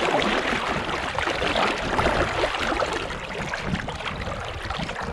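River water rushing and splashing around a canoe as it is steered through current, a dense crackling wash with no let-up.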